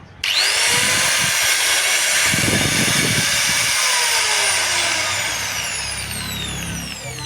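Angle grinder motor switched on and spinning up with a sudden high whine about a quarter second in; from about four seconds in its pitch slowly falls and the sound fades as it coasts down.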